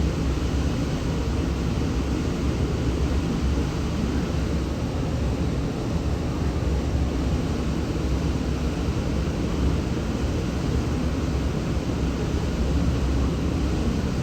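Steady low rumble and hiss of railway station platform ambience, with no distinct train movement or announcement standing out.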